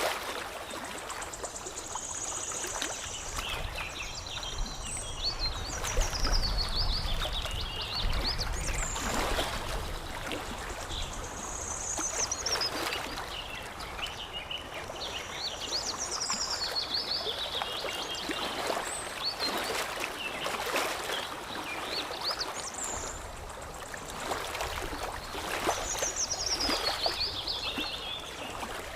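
Water lapping and trickling, with a songbird singing the same high phrase of notes that step down in pitch, repeated about every eight seconds.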